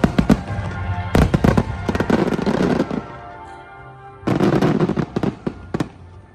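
Fireworks going off in rapid clusters of sharp crackling pops: one cluster right at the start, a long one from about one to three seconds in, and another from about four to six seconds in, with music playing underneath.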